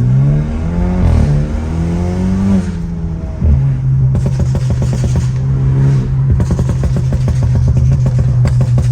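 Straight-piped, Stage 2 tuned BMW F30 328i's turbocharged four-cylinder exhaust, revving up and down for the first few seconds, then a sharp bang about three and a half seconds in. After that the engine holds a steady drone with rapid crackles and pops from the exhaust.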